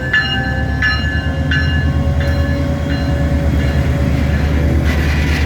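Diesel locomotive bell ringing, struck about every 0.7 s and fading out after about three seconds, over the steady low rumble of the arriving train's locomotive. A hissing rush comes in near the end.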